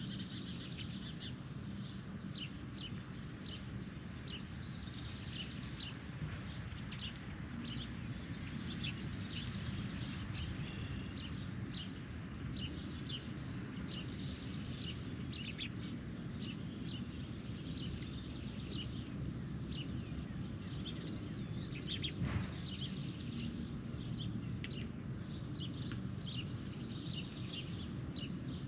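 Birds chirping with many short, repeated calls over a steady low background rumble. There is one sharp knock about 22 seconds in.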